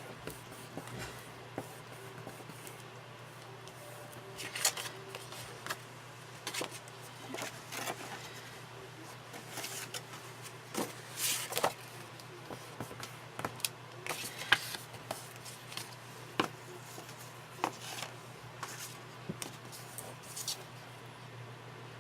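Paper and card pieces being handled and pressed down on a tabletop: scattered rustles, light scrapes and taps, over a steady low hum.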